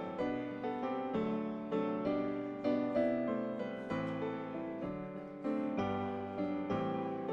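Piano playing slow, hymn-like chords, with notes struck about twice a second and ringing between strikes.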